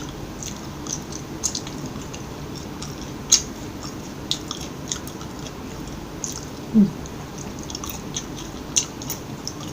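A person chewing fast food close to the microphone, with scattered small wet mouth clicks and crunches. There is a short hum of a voice a little before 7 s.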